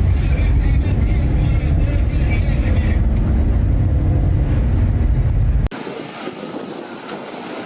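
Loud, steady low rumble, like wind buffeting the microphone or a vessel's machinery, until it cuts off abruptly near the end. Quieter wind and sea noise follows.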